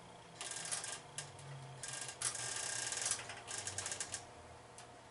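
Rapid mechanical clicking from the pinball machine as its self-test controls are worked, in three bursts: a short one near the start, a longer one in the middle and a brief one near the end, over a faint steady low hum.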